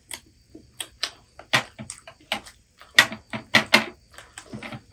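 Crispy fried chicken lollipops being bitten and chewed close to the microphone: an irregular run of sharp crunches and crackles, loudest about three to four seconds in.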